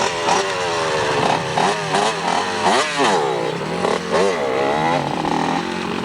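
Dirt bike engines revving, their pitch rising and falling again and again, with more than one bike heard at once and one sharp rise and fall about halfway through.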